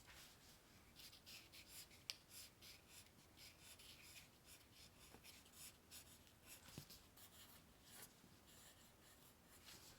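Faint scratching of a pen writing on paper: a run of short, quick strokes, as a handwritten thank-you note is written.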